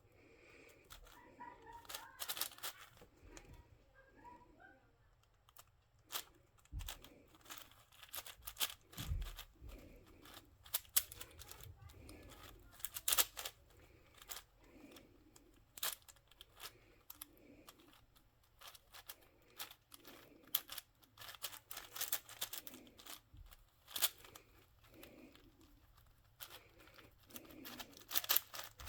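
Plastic twisty puzzle cube being turned by hand: an uneven run of quick clicks and clacks as its layers snap round.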